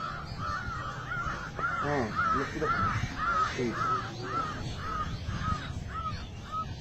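A bird calling a steady string of short, arched notes, about three a second, until just before the end. Faint voices sit underneath.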